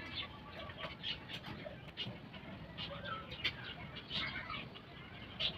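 Faint, scattered bird chirps, short calls with a few small pitch glides, over low background noise.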